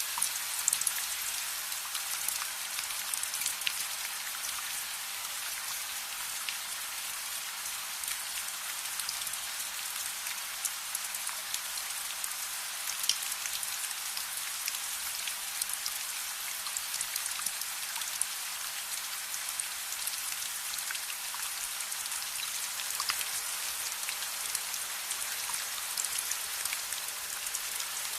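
Steady rain falling as an even hiss, with scattered sharp ticks and crackles mixed with a soft crackling fire.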